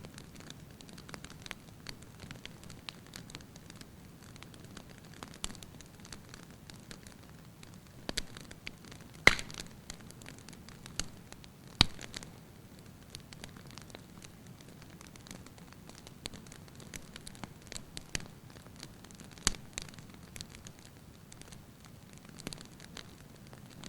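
Wood fire crackling in a fireplace: a low steady hiss of burning with scattered sharp pops and snaps from the logs, the loudest two about nine and twelve seconds in.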